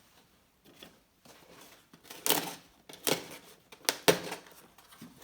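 Cardboard packaging being handled and pulled open, in several short rustling bursts with a sharp knock about four seconds in.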